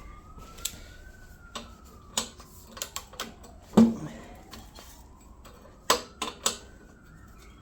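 Scattered metal clicks and knocks of tools and parts being handled on a seized small engine, the loudest about four seconds in and near six seconds. Behind them a faint slow siren wail rises and falls twice.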